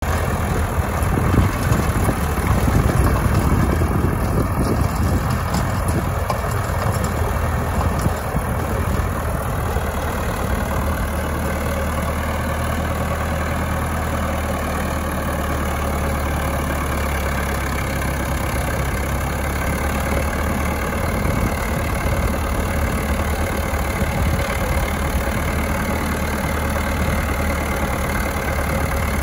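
Trident compact tractor's engine running steadily with a low drone, a little louder and more uneven in the first several seconds before settling.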